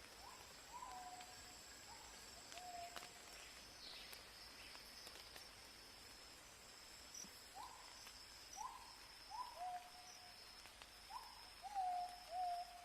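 A series of short animal calls, each a quick upward flick that drops to a brief held note: a few early on, then a faster run in the second half, loudest near the end. Under them runs a steady high insect drone that pulses in the second half.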